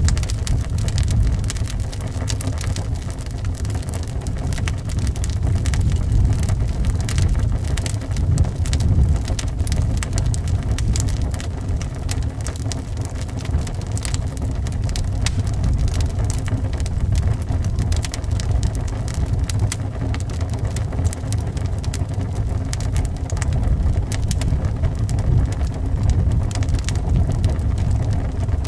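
Wood fire crackling with many small, irregular pops over a steady low rumble of wind howling.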